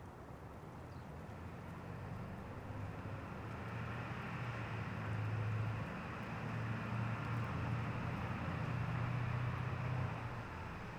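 A motor vehicle going by on a road, its engine hum and tyre noise growing louder over several seconds, holding, then easing off near the end.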